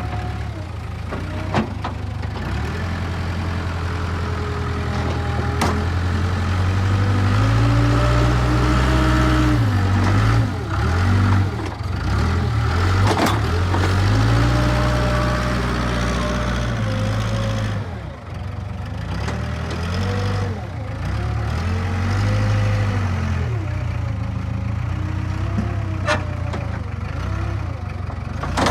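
Takeuchi TL230 skid steer's diesel engine revving up and down repeatedly as it works, digging out soil, with a few sharp knocks along the way.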